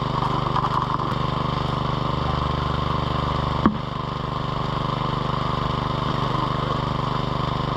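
Small petrol engine of a high banker's water pump running steadily at a constant speed, with one sharp knock about halfway through.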